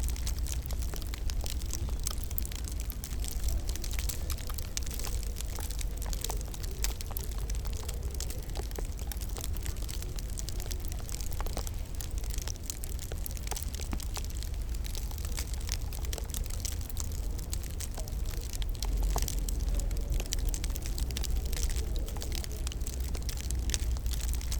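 Wood fire in a fireplace crackling steadily, with many small irregular pops and snaps over a low rumble.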